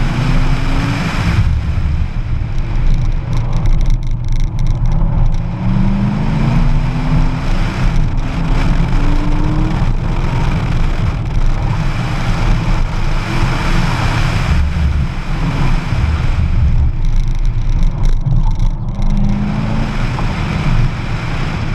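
Sports car driven hard through an autocross course: the engine climbs in pitch as it accelerates a few times, about six to ten seconds in and again near the end, over a constant heavy rumble of wind buffeting an outside-mounted microphone.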